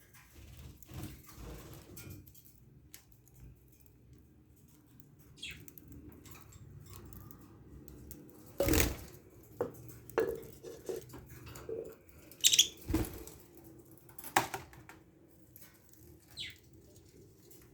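Budgies giving a few short chirps, with scattered knocks and clatters throughout, the loudest about nine and thirteen seconds in.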